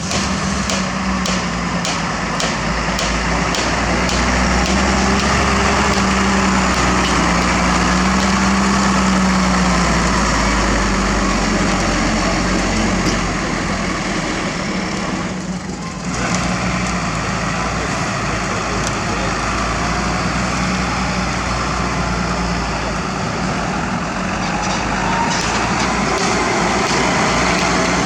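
Heavy construction machinery running steadily with a constant low hum. A run of evenly spaced ticks sounds in the first few seconds, and the sound briefly drops away about sixteen seconds in.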